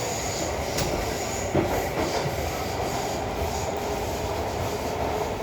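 Stockholm metro train running at speed, heard from inside the carriage: a steady rumble with a thin, high wheel squeal early on. A sharp click comes about a second in, then a louder knock shortly after.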